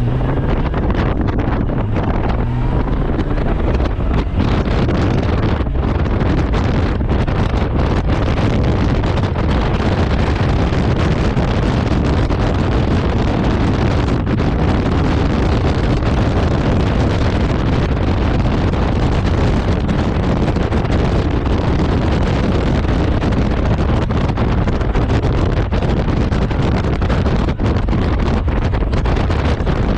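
Wind buffeting the microphone of a Honda Gold Wing motorcycle riding at road speed: a loud, steady rush over the low rumble of the bike and road.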